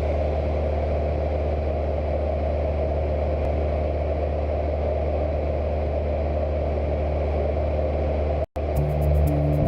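Cessna 172's piston engine and propeller giving a steady, unchanging drone. It cuts off abruptly near the end and music comes in.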